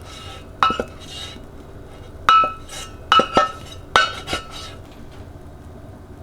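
Hard items such as dishes or glassware clinking and knocking as they are handled and set down: about six sharp clinks, each with a short ring, the last ones coming in quick pairs.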